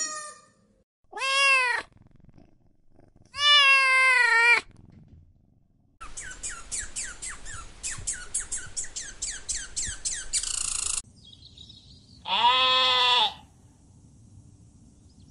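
A run of animal calls: two short arching meows from a cat, then a red squirrel chattering in a fast series of chirps for about five seconds, ending in a brief harsh rasp, and then a goat bleating once.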